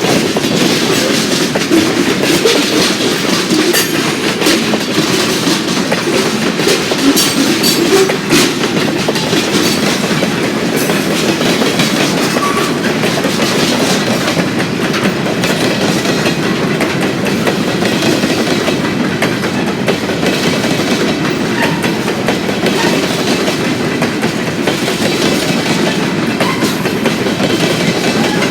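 Freight train cars rolling past, with steady wheel-on-rail noise and the clicking of wheels over the track.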